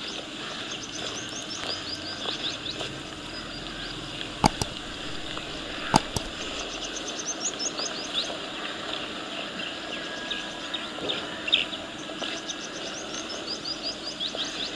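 Birds singing in the fields: runs of rapid high chirps, a second or two at a time, coming three times over a steady outdoor background. Two sharp clicks sound in the middle, a second and a half apart.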